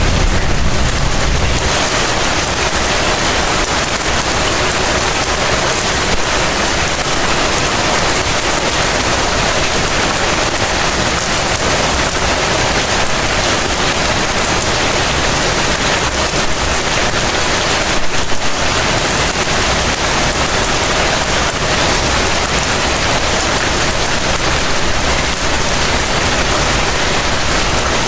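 Heavy rain falling steadily, a dense, even hiss. A low rumble dies away in the first two seconds, and there is a brief louder moment about eighteen seconds in.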